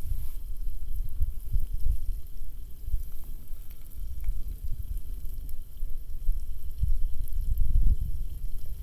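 Wind rumbling and buffeting on the microphone, swelling and easing, over a faint crackling hiss with a few scattered ticks.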